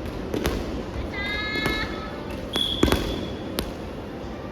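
Soft volleyball play on a gym court: the ball is hit sharply several times, and sneakers squeak on the floor twice in between.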